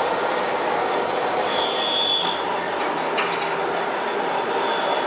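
Log-rounding machine running, with a steady dense machine noise and a brief high-pitched whine about a second and a half in.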